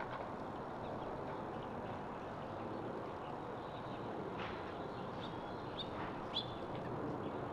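A few short songbird chirps, starting about halfway through, over a steady low background rumble.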